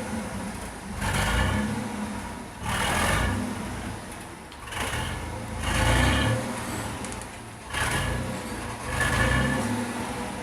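GM Vortec 4.3-litre V6 engine being revved in a series of throttle blips, each swelling up and falling back toward idle, about five times.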